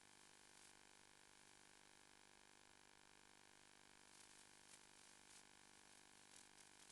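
Near silence: a faint steady hiss and hum, with a few faint crackles about four and five seconds in and near the end.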